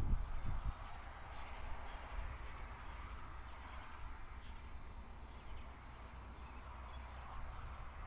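Short, high bird chirps repeated every half second or so, fading out about halfway through, over a low rumble.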